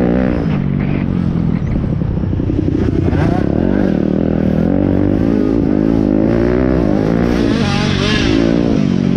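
Pit bike engines running hard, their pitch rising and falling over and over as they rev up and back off.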